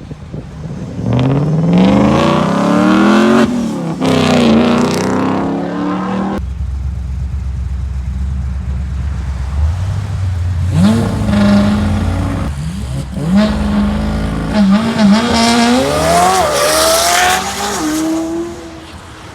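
Car engines accelerating hard, the revs climbing and falling back at each gear change. In the middle comes a deep, steady low rumble, then a fresh run of rising revs through the gears.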